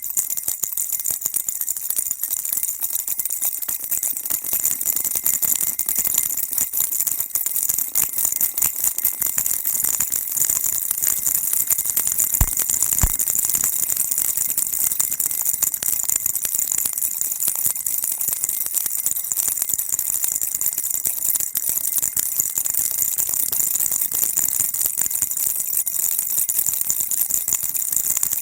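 Baby rattle shaken without a break, a dense bright jingling that goes on steadily. Two soft low knocks come about twelve and a half seconds in.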